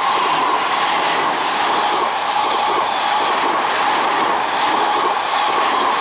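Odakyu 5000 series ten-car electric commuter train passing close by at about 96 km/h: a loud, steady wheel-on-rail running noise with a strong hum in the middle range and light clicking of wheels over the track.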